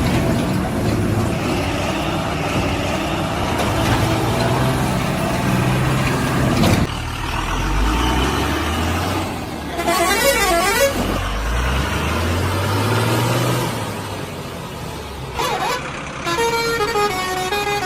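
Vehicle engines running, with horns sounding: a warbling horn about ten seconds in, and a horn playing a stepped tune near the end.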